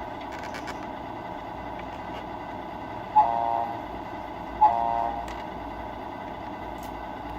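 Sound module of a Tamiya RC model truck playing a steady idling truck-engine hum, with two short air-horn blasts about a second and a half apart near the middle.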